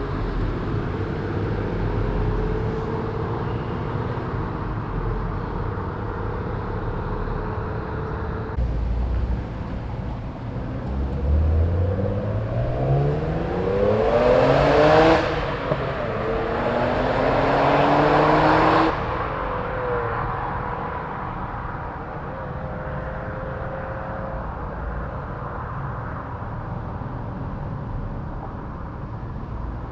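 Car engines idling, then one car accelerating hard: its engine note rises in two pulls with a gear change between them, loudest about halfway through, then cuts off sharply, leaving a quieter idle.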